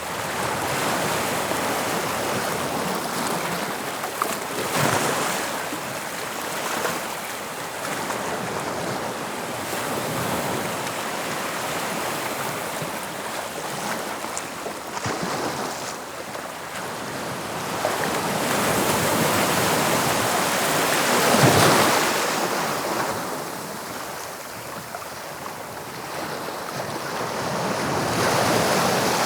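Sea waves breaking and washing on the shore of the English Channel, swelling and ebbing every few seconds, with the loudest surge about two-thirds of the way through. Wind rumbles on the microphone now and then.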